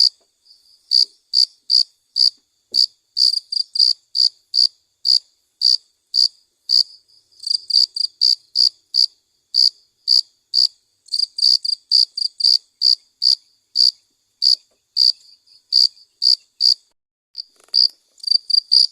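Crickets chirping: short, high-pitched chirps repeating a few times a second at uneven spacing.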